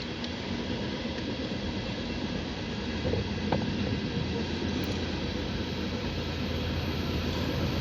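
CSX freight train (a trash train of loaded cars) rolling past with a steady rumble of wheels on rail. A diesel engine hum grows slightly louder in the second half as the mid-train DPU locomotive draws near.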